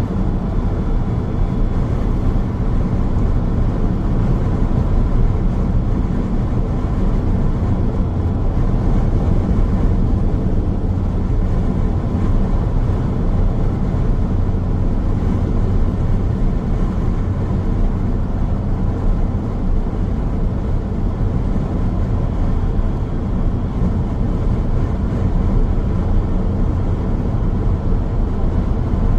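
Road noise of a car driving steadily: a constant low rumble of tyres on the road with a faint engine hum, unchanging throughout.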